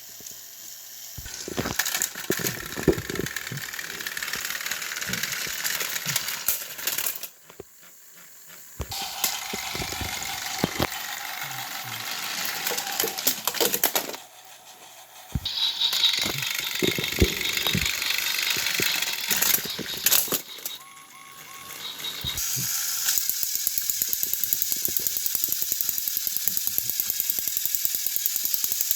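Battery-powered Thomas & Friends toy engines running on plastic track, their motors and wheels rattling. The sound stops a few times and settles into a steady rapid clicking for the last few seconds.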